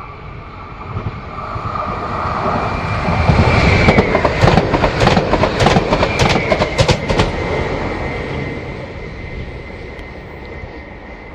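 A train passing on a curved track: it builds up, runs past with a quick series of wheel clacks over the rail joints, then fades away. A thin high wheel squeal from the curve is heard throughout.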